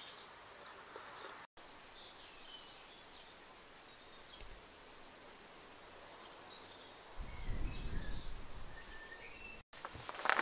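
Quiet outdoor garden ambience with small birds chirping and twittering on and off. A low rumble comes in about seven seconds in and lasts a couple of seconds. The sound drops out completely for an instant twice.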